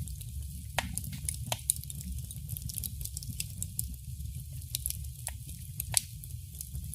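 Wood fire crackling in a fireplace: irregular sharp pops and snaps, a few louder ones about a second in, at about one and a half seconds and near six seconds, over the steady low rumble of the flames.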